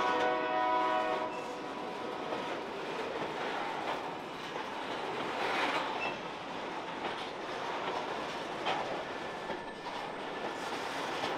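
Covered hopper cars of a long freight train rolling past close by, their wheels clattering and knocking over the joints of creaking track. A locomotive horn chord is still sounding at first and cuts off about a second in.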